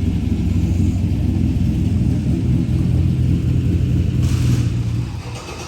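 Cammed V8 engine idling with an uneven, lumpy low rumble, fading away near the end.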